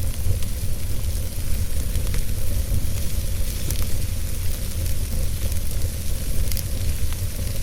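Wood fire burning in a fireplace: a steady low rumble and hiss with a few sharp crackles scattered through it.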